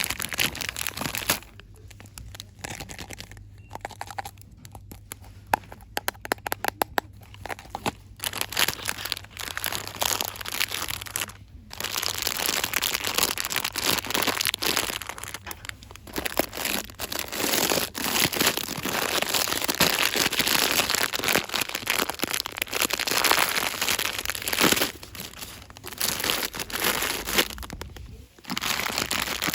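Store-bought items and their packaging crinkled and rustled by hand, ASMR-style. For a stretch early on the rustling gives way to sharp taps and clicks, including a quick run of taps, before dense crinkling resumes.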